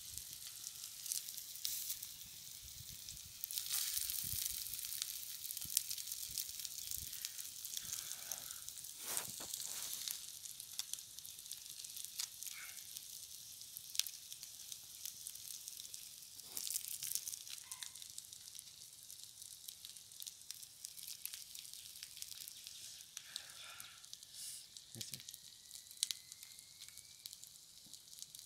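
Masala-coated eggs on sticks frying in oil on a flat iron pan over a wood fire: a steady hiss of sizzling oil with small crackles and pops throughout.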